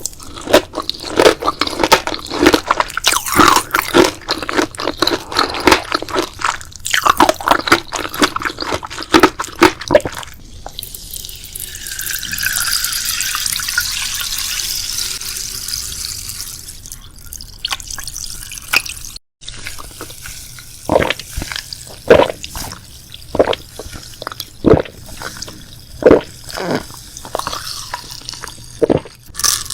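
Close-miked ASMR eating: dense crunchy chewing for about ten seconds, then a steady hiss lasting several seconds. After a brief break come spaced wet, sticky mouth clicks.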